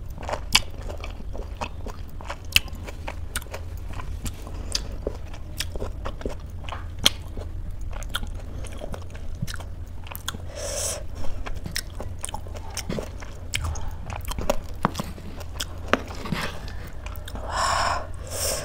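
Close-miked mukbang eating sounds: chewing with many small wet mouth clicks, over a low steady hum. Near the end, a metal spoon scoops through thick oatmeal.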